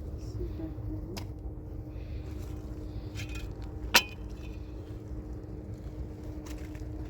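A few short, sharp clicks and clinks, the loudest about four seconds in, over a steady low rumble and a faint steady hum.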